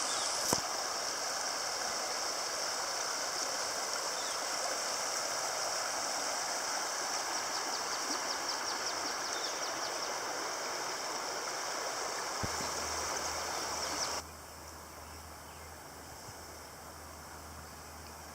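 Rushing river water, a steady even rush. About fourteen seconds in it cuts off abruptly to a much quieter background with a low hum.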